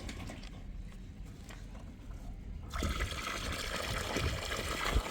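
Running water, a steady hiss that starts abruptly about three seconds in; before it only a faint low rumble with a few light clicks.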